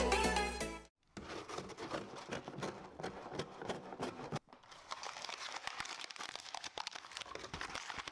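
Packaging crinkling and rustling with many small clicks and crackles, pausing briefly about halfway through. The tail of the electronic intro music cuts off about a second in.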